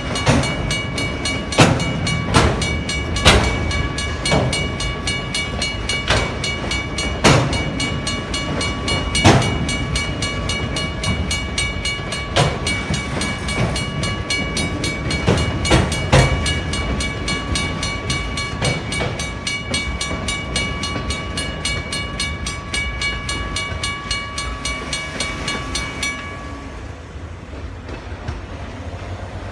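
WRRS mechanical crossing bell ringing in fast, even strokes, stopping about 26 seconds in. A slow train is passing at the same time, a low rumble with louder irregular knocks of wheels over the rail joints.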